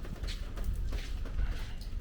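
Footsteps on a wet stone street, about two steps a second, over a steady low rumble.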